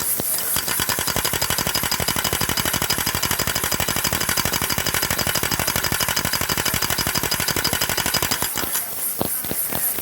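A model engine running loud with a rapid, even beat of sharp exhaust pops, about ten a second, which thins out to a few scattered knocks near the end.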